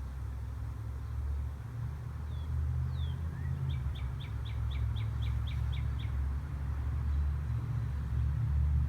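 A songbird calls: a couple of falling chirps, then a quick run of about ten repeated notes, roughly four a second, over a steady low rumble.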